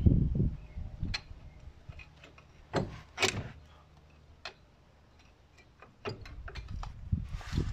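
Scattered knocks and clicks of tools and metal parts being handled, louder around the start and about three seconds in, with a quieter spell in the middle and more small clicks over a low rumble near the end.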